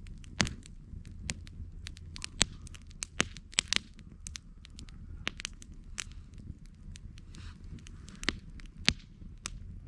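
Wood campfire crackling, with irregular sharp pops and snaps, a handful of them much louder than the rest, over a low steady rumble.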